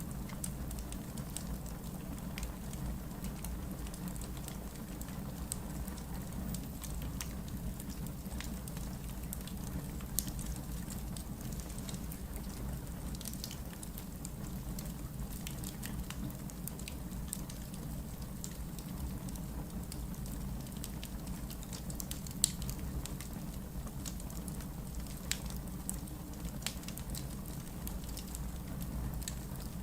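Wood logs burning in a fireplace: a steady low rumble of flame with scattered crackles and pops, two sharper pops about ten seconds in and again past twenty seconds.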